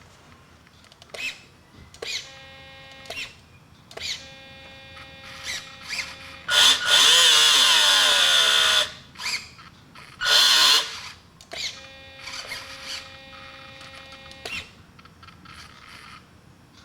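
Electric RC outboard: small servo motors whining in a series of short moves, and twice the electric drive motor spun up at high speed, the first run about two and a half seconds long and falling in pitch as it winds down, the second about a second.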